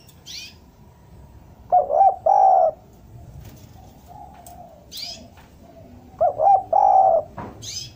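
Spotted dove cooing, used as a lure call: two phrases about four and a half seconds apart, each a few quick notes ending in a longer coo. Brief high chirps from small birds come in between.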